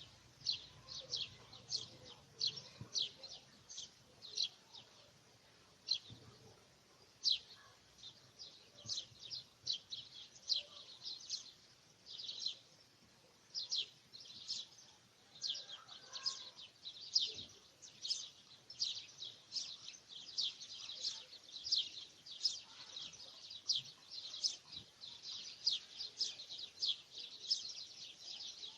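Small birds chirping: a steady stream of short, high chirps, several a second, with no letup.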